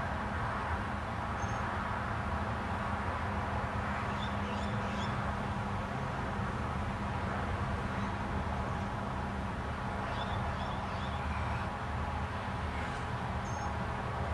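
Steady background noise with a low hum, and a few short high bird chirps in small clusters, scattered through it several times.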